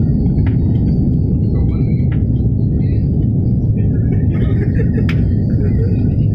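Steady low rumble of an airliner's cabin noise, from its jet engines and the airflow over the fuselage, heard from a passenger seat. A few sharp clicks and faint voices sit over it.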